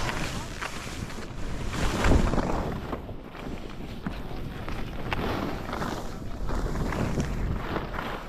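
Wind buffeting the microphone of a camera carried by a skier moving downhill, with skis swishing over the snow in a few swelling turns. The loudest swell comes about two seconds in.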